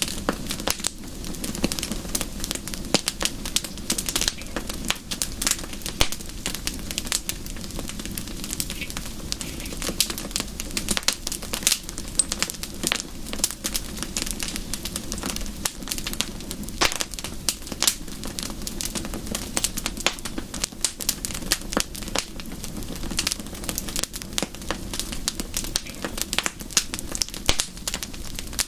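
Wood fire in a fireplace crackling: dense, irregular pops and snaps over a steady low rush.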